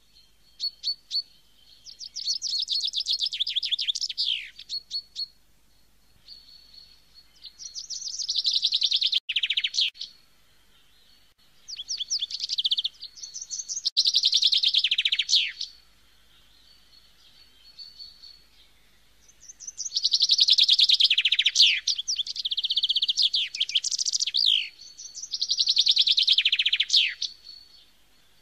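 Birdsong: phrases of rapid, high chirping notes, each lasting one to three seconds, repeated with short pauses between them, over a faint steady high tone.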